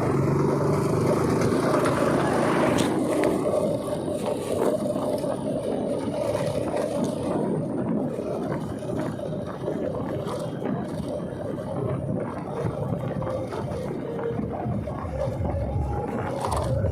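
Motorcycle running at road speed, its engine note under a steady rush of wind over the microphone.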